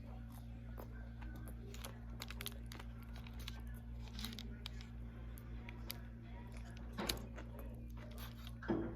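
Sandwich wrapper paper crinkling and rustling while a Subway sandwich is eaten, with scattered small crackles and a couple of louder sudden handling sounds about seven seconds in and near the end. A steady low electrical hum runs underneath.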